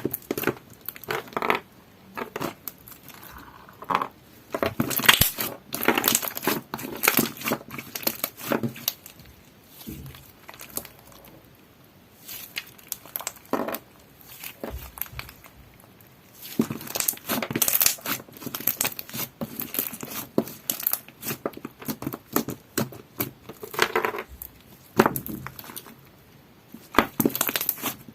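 Clear slime mixed with crunchy heart-shaped ice pieces being squeezed and pressed by hand, giving runs of crackling, crinkling pops with short pauses between handfuls.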